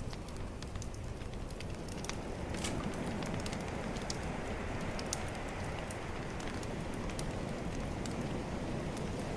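Bonfire crackling with scattered sharp pops over the steady rush of calm ocean waves.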